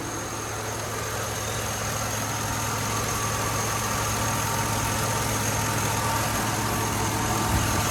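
Chevrolet Tahoe's LS V8 idling steadily on all cylinders, with no misfire, after its fuel injectors have been cleaned and rebuilt.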